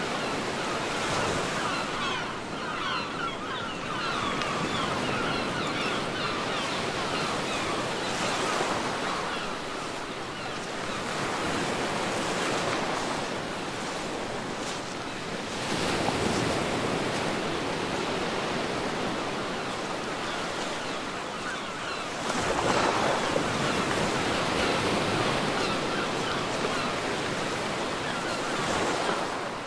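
Sea waves breaking and washing on a beach: a steady rush of surf that swells louder twice, about halfway through and again about three-quarters of the way in.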